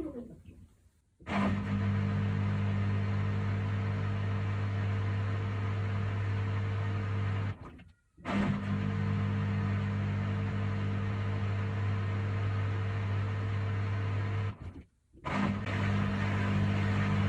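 Haier HW90-BP14636 washing machine's inverter motor and belt drive turning the drum during the wash, a steady hum that runs for about six seconds at a time with short silent pauses between: about a second in, near the middle and near the end.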